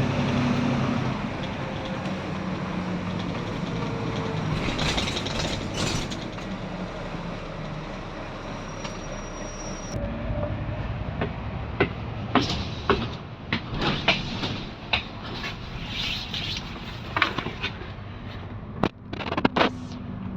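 Volvo B9TL double-decker bus running, heard from on board: a low engine hum under steady road and running noise. In the second half there are many sharp rattles and knocks.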